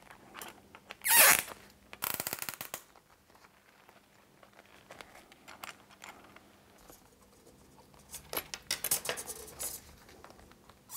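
An 11mm spanner tightening T-connectors on a fibreglass rod frame. There is a swish about a second in and a quick run of rapid clicks around two seconds. Scattered clicks follow, then a busier cluster of clicks and light knocks near the end.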